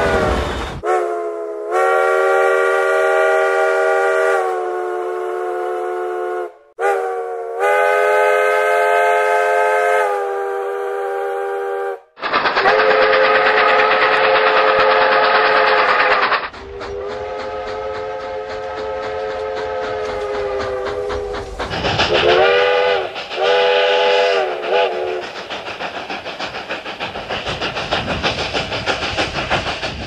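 Steam locomotive chime whistles sounding a series of long blasts, each a chord of several steady tones. Three shorter blasts follow, each swelling at its start. Near the end the train is heard running with a rapid rhythmic beat.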